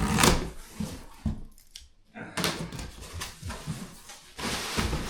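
A cardboard shipping box being handled and opened: irregular knocks and scrapes, then steady rustling of packaging from about four and a half seconds in.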